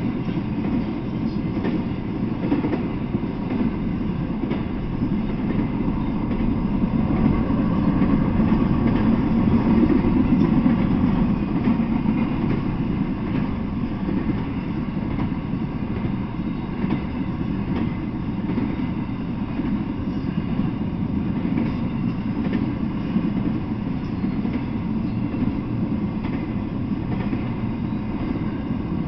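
Freight train cars rolling past at speed: a steady rumble of steel wheels on rail, swelling a little about eight to eleven seconds in.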